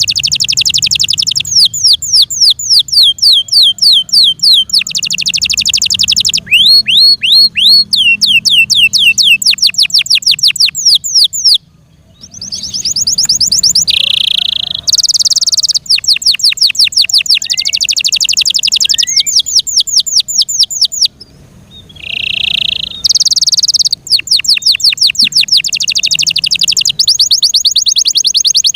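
F1 Yorkshire canary singing loudly: fast trills of rapidly repeated down-sweeping notes alternating with buzzy rolls, broken twice by short pauses. It is a full-repertoire, contest-style song.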